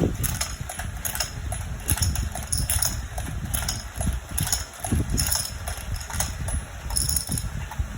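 Toy domino train with its plastic dominoes: a rapid, uneven run of small clicks and clacks over a low rumble.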